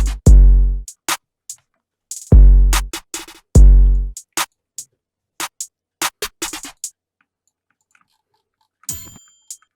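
Trap drum pattern playing back in FL Studio: three booming 808 bass hits with long tails under quick hi-hat ticks. After about five seconds it thins to a few scattered ticks and stops. Near the end a short ringing metallic hit sounds.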